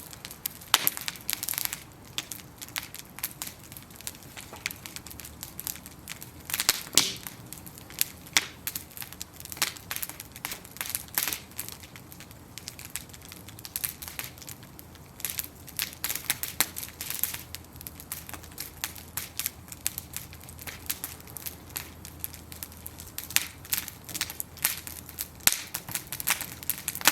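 Bonfire of burning wooden planks crackling, with frequent irregular sharp pops and snaps over a low hiss of the flames.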